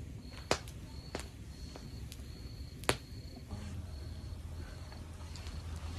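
Log fire crackling: a few sharp pops, the loudest about three seconds in, over a low steady rumble of the flames. A faint high chirp repeats evenly underneath, a little faster than once a second.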